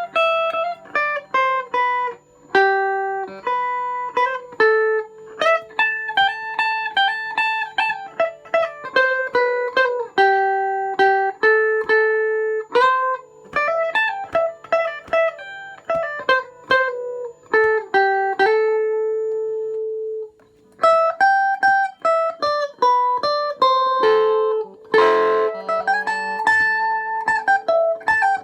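Electric guitar with a home-made weighted tremolo block, played as a single-note melodic line with some notes held and left to ring out. A short scratchy strum about three quarters of the way through, after a brief pause near the middle.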